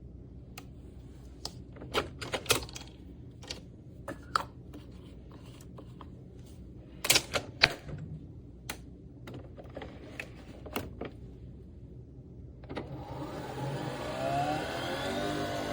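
Nespresso Vertuo Next coffee machine: a series of sharp clicks and knocks, then near the end its motor starts up and whirs, its pitch rising and falling.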